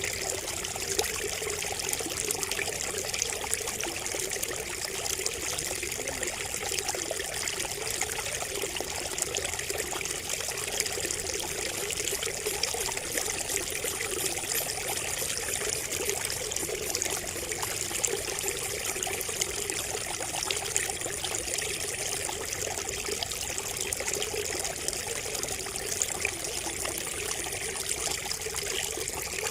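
Water trickling and pouring steadily from a bamboo spout, a continuous splashing babble.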